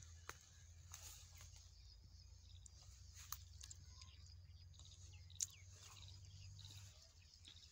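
Near silence: faint outdoor ambience with a low steady hum and a few sharp clicks, the loudest about five and a half seconds in.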